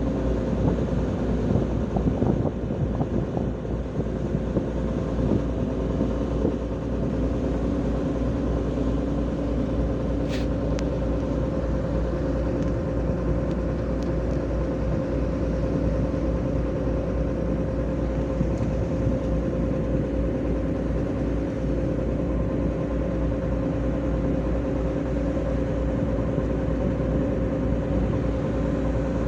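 A boat's engine running steadily at cruising power on a sea trial: a constant hum over a heavy low rumble. A brief click sounds about ten seconds in.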